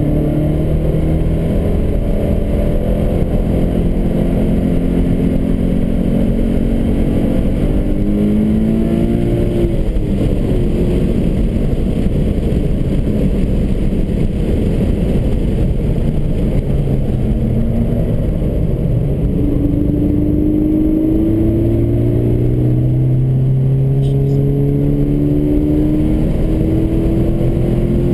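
Subaru BRZ's 2.0-litre flat-four engine heard from inside the cabin during a hot lap, revs climbing and dropping back again and again through the corners, over a steady heavy rumble of road noise.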